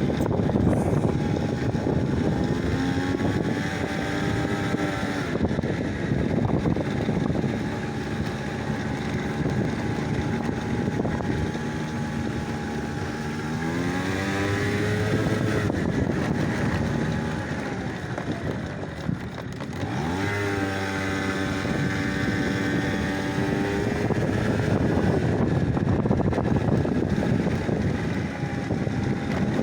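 An engine running under wind noise. Its pitch climbs and drops as it speeds up and changes gear, most clearly about 13 seconds in and again around 20 seconds in.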